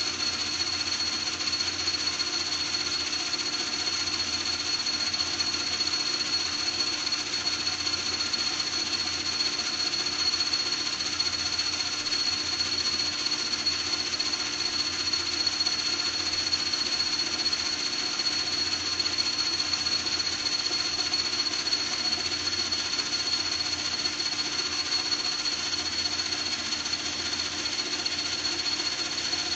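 Metal lathe running steadily and turning a part, with a constant high-pitched whine over the noise of the cut.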